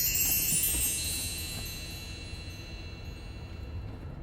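A cascade of high, bell-like chime tones ringing out and slowly fading away over a low background rumble.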